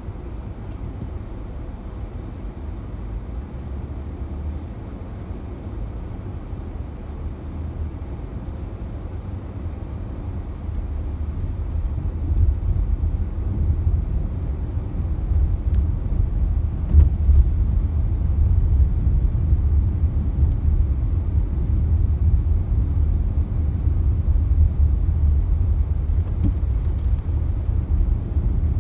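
Low, steady rumble of a car's road and engine noise heard from inside the cabin while driving, growing louder about halfway through.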